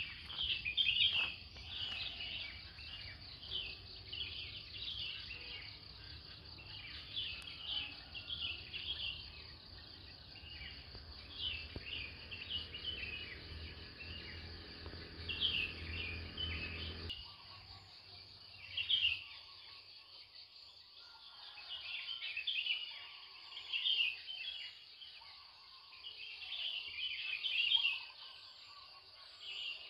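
Dawn chorus of many small birds chirping and calling over one another in short, overlapping phrases. Under it, a low steady hum runs through the first half and cuts off suddenly a little over halfway.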